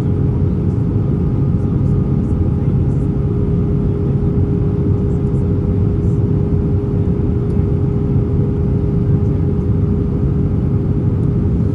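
Airbus A320 cabin noise in flight: a steady, loud rumble of engines and airflow with a constant hum tone running through it.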